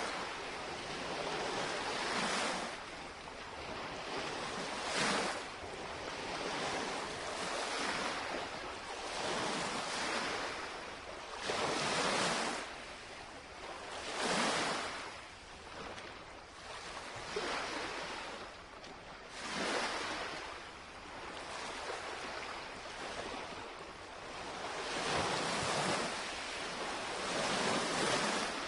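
Small lake waves lapping and washing against the shoreline, surging every few seconds, with some wind on the microphone.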